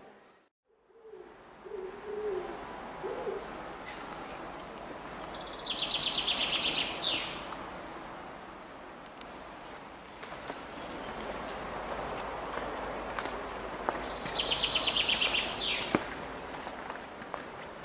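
Birdsong: a songbird sings a fast, even, high trill twice, about eight seconds apart, among other scattered high chirps. A few low cooing notes come about two seconds in, over a faint steady background noise.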